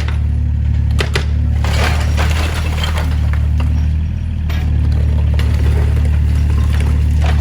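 Diesel excavator engine running steadily, with scattered cracks and clatter of demolition debris breaking.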